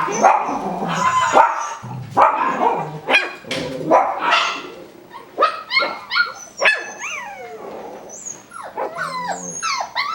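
Five-week-old Coton de Tulear puppies barking and yipping, then giving high whimpers that slide down in pitch in the second half.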